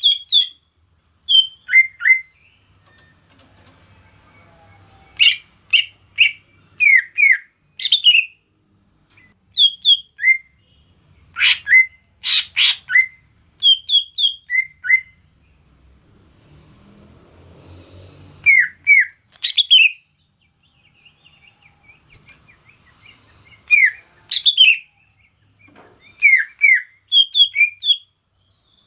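Cucak ijo (leafbird) singing: clusters of short, sharp whistled notes in quick phrases, broken by pauses of a second or more, over a steady high hiss.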